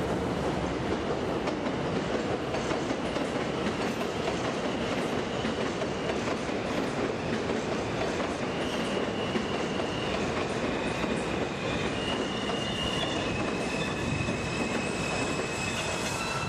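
Train running on rails with a steady rumble and clatter, its wheels squealing in thin high tones from about halfway through.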